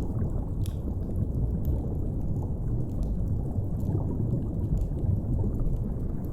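Deep, steady underwater rumble of an ocean-depths ambience, with a few faint, scattered crackles of a fire.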